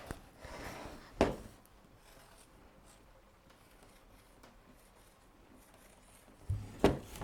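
Mostly near silence: small-room tone. A faint rustle and a single click come in the first second and a half, and a soft low thump and another click come near the end.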